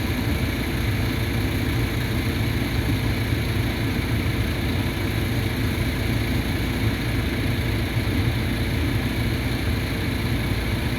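A machine running with a steady, unchanging vibrating hum, its owner unsure whether the vibration is normal.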